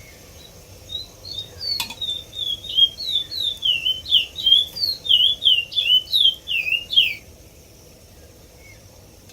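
A small bird singing: a rapid run of high, downward-sliding chirps, several a second, for about six seconds before it stops, with a single sharp click near the start.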